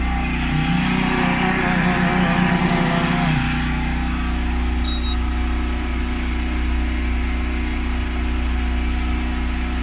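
Steady mechanical hum of a running refrigerator compressor while refrigerant is being charged into the system. A wavering pitched sound rises over it for the first three seconds or so, and a short high electronic beep sounds about five seconds in.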